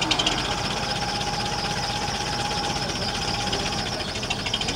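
Restored 1951 Farmall tractor engine idling steadily just after being started, with an even run of rapid firing pulses.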